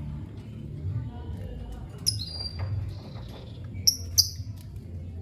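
Lovebird chirping: one sharp, high, falling chirp about two seconds in, then two short high chirps in quick succession near the four-second mark, over a steady low background rumble.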